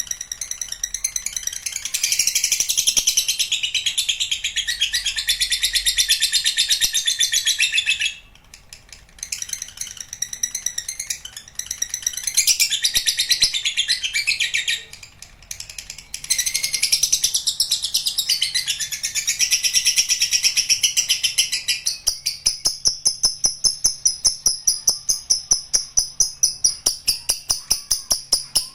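Lovebird ngekek: long bouts of rapid, high-pitched chattering trill, with two short breaks. Near the end this gives way to a regular pulsing pattern of a few beats a second.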